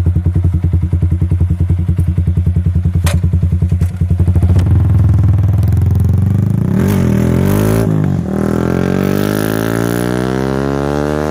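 Motorcycle fitted with an aftermarket WRX GP K1 exhaust (knalpot) idling with a steady, even pulse, then pulling away about four seconds in and accelerating, the exhaust note rising in pitch through the gears.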